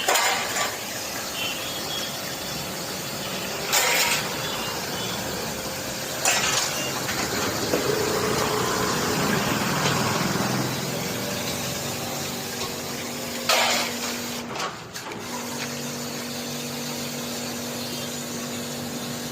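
Pressure water jet washing an air conditioner's outdoor unit during servicing: a steady spray hiss with a few sharper, louder bursts. A steady hum joins from about fifteen seconds in.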